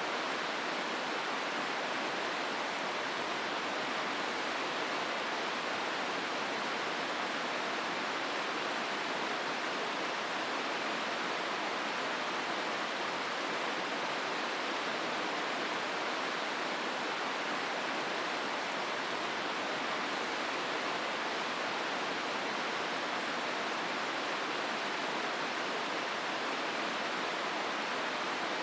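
Hozu River water rushing steadily over rocks in the gorge, an even, unbroken rush with no distinct events.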